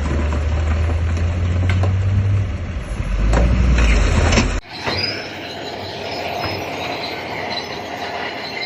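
Heavy diesel engine of earthmoving machinery running steadily, with a few sharp knocks. About halfway through it cuts off abruptly, leaving a quieter, thinner sound without the engine's deep hum.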